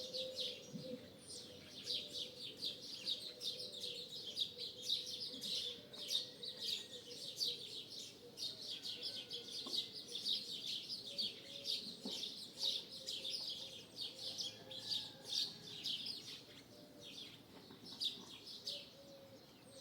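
A large flock of starlings chattering and whistling continuously in a dense chorus, with a dove cooing faintly underneath.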